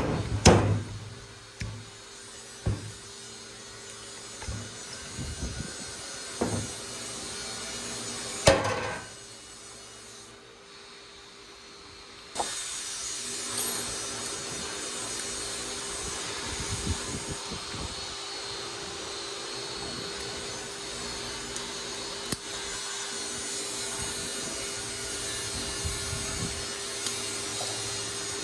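Hand work on a motorcycle front fork during a seal change: a few sharp knocks of parts and tools, then steady rubbing or scraping that goes on, with a constant hum beneath.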